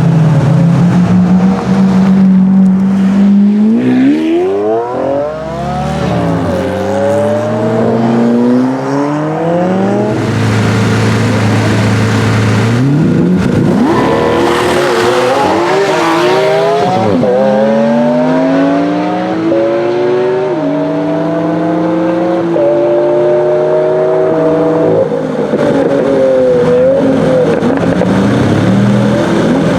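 Lamborghini Aventador V12 accelerating hard through the gears. After about three seconds of steady running, the revs climb and then drop sharply at each upshift, about five times over the rest of the clip.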